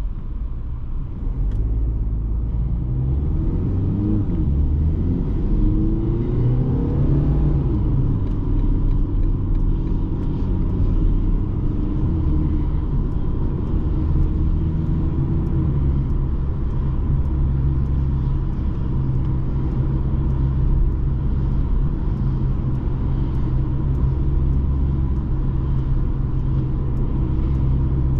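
BMW 220d's four-cylinder diesel engine with tyre and road rumble as the car is driven. The engine note rises in pitch a few seconds in as it accelerates, then settles into a steady low drone.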